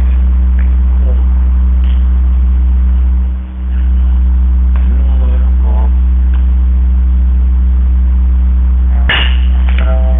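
Loud steady low electrical hum, dipping briefly about a third of the way in, with faint distant voices in the middle and a sharp knock near the end.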